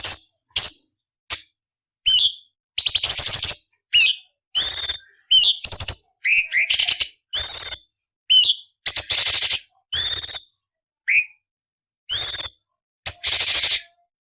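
Orange-bellied leafbird (cucak cungkok) singing a rapid string of short, harsh, scratchy rasping phrases mixed with sharp whistled notes, each phrase under a second long with brief silent gaps between.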